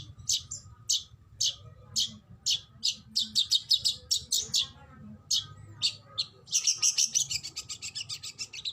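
Oriental magpie-robin (kacer) calling: sharp, high notes about two a second that come faster and faster, breaking at about six and a half seconds into a rapid, dense run of notes.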